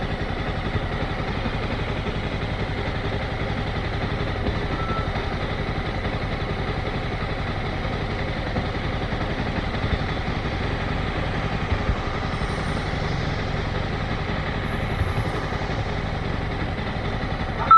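Motorcycle engine running steadily at low revs, with an even rapid firing pulse and no revving.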